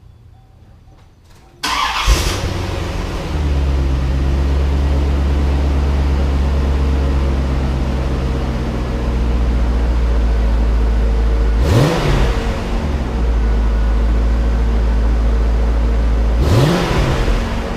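1994 C4 Corvette's V8 cranking and starting about two seconds in, then settling into a steady idle. It is revved briefly twice in the second half, each rev rising and falling back to idle.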